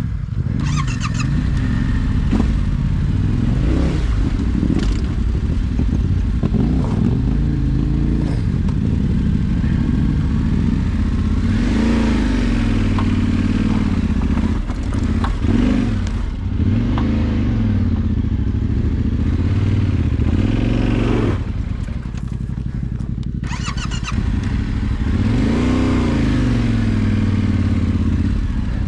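Off-road motorcycle engine running under load, its pitch rising and falling over and over as the throttle opens and closes.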